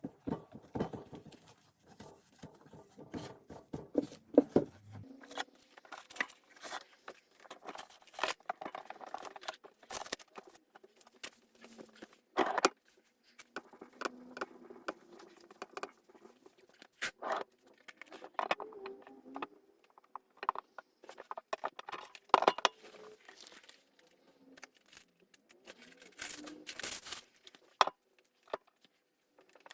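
Household objects being handled and moved: irregular clicks, knocks and clinks with rustling and crinkling, like items being picked up, sorted and put down while tidying.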